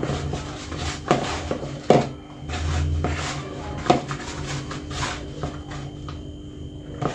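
Hands tossing chicken pieces in a dish of flour: soft rubbing and shuffling, with several short knocks against the dish, the sharpest about two seconds in.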